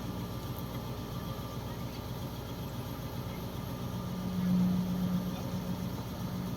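Heavy machine's diesel engine running steadily, rising briefly in level about four and a half seconds in.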